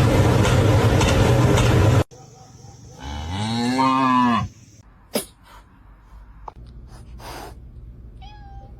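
A loud rushing noise cuts off about two seconds in. A second later an animal gives one long drawn-out call that rises and then falls in pitch, and a short high chirp follows near the end.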